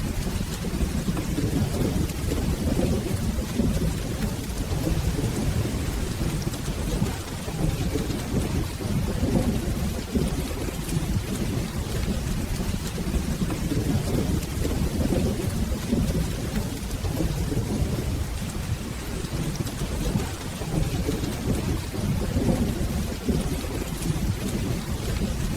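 Steady rain with a continuous low rumble of thunder underneath, even throughout with no single loud clap.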